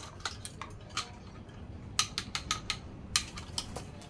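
Irregular sharp clicks and taps of hard objects, in small clusters of several a second.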